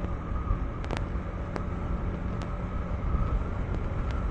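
KTM 390 Enduro R's single-cylinder engine running steadily as the bike rides through loose sand, with wind rush and a few sharp ticks.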